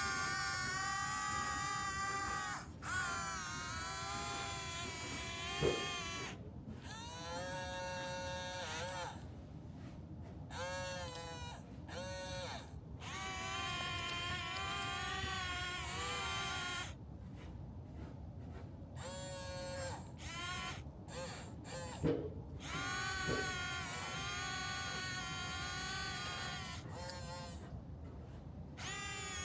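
A toy excavator's small electric motors and gearboxes whining as they run, the pitch rising and falling as the arm and bucket move, stopping and starting again several times. There are two sharp knocks, about six seconds in and again past twenty seconds.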